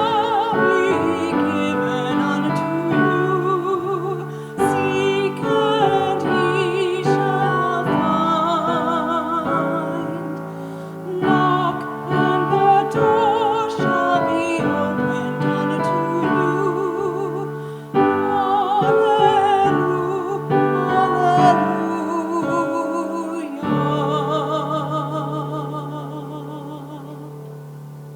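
A solo singer with vibrato sings a sacred song to piano accompaniment. The final held chord dies away near the end.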